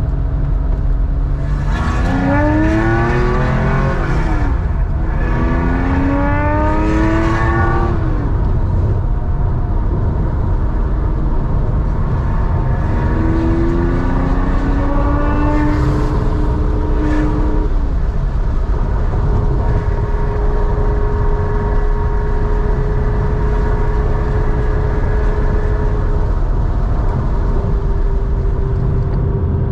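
1987 Porsche 911's air-cooled 3.4-litre flat-six breathing through a Scart two-into-one-out sports muffler, accelerating hard. The engine note climbs twice in quick succession near the start, with a drop at the gear change between, and climbs again through the middle. It then holds a steady note at cruise over a constant low rumble.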